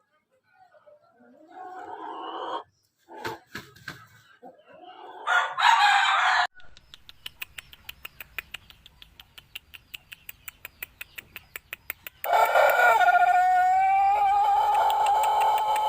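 Pelung rooster giving its long, drawn-out crow, starting about three-quarters of the way in and held on one steady pitch to the end. Before it come a few short scattered noises and a fast run of even clicks.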